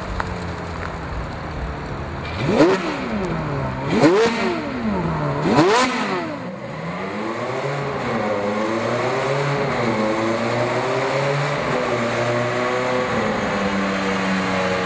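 Ferrari F430 Scuderia's V8, fitted with sport headers and 200-cell high-flow cats, revved in three quick throttle blips about a second and a half apart, each rising sharply and falling back. It then runs on at a steady, lower engine speed with small rises and falls in pitch.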